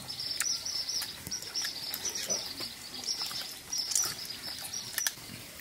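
Close-up chewing and lip-smacking as a child eats clay-baked chicken with his hands: scattered short wet clicks. Behind it, continuous high-pitched chirping from birds.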